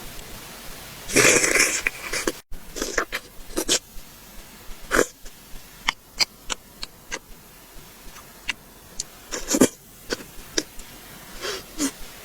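Close-miked eating sounds: scattered wet mouth clicks and lip smacks from chewing, with longer noisy bursts about a second in and again near the last quarter.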